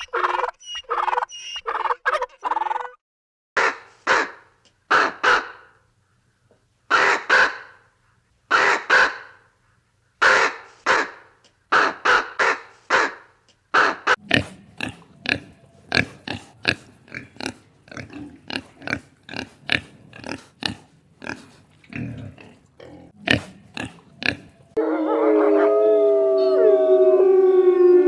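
A series of short, harsh animal calls, about one a second at first, then quicker, two or three a second, from about halfway. Near the end they give way to held, gliding tones.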